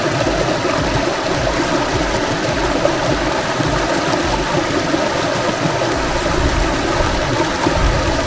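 Mountain valley stream flowing over rocks: a steady rush of water.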